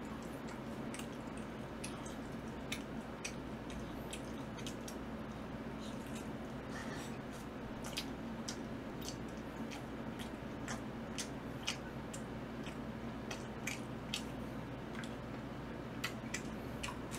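Close-up eating sounds: chewing of seasoned fried chicken, heard as scattered small wet clicks and smacks. A steady low hum runs underneath.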